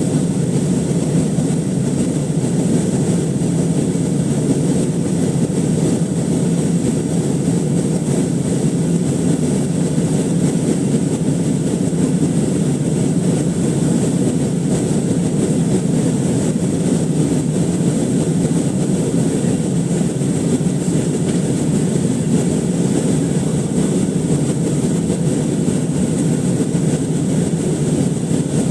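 Steady cabin noise from a rear window seat of an Airbus A320 in flight: its two CFM56-5A3 turbofan engines and the airflow make an unbroken, deep engine-and-air noise. A thin, steady high whine sits above it.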